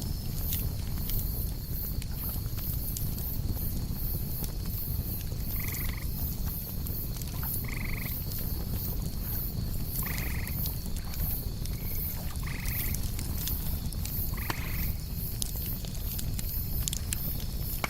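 Campfire crackling with scattered pops, over a steady high insect trill and fast pulsing chirps. About six seconds in, a short night-animal call starts repeating, six times at roughly two-second intervals.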